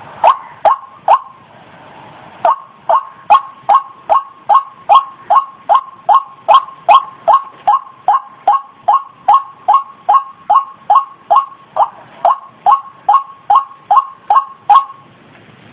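White-breasted waterhen (ruak-ruak) giving its repeated 'kruok' call: short pitched notes, three at the start, a pause of about a second, then an even run of about two to three calls a second that stops shortly before the end.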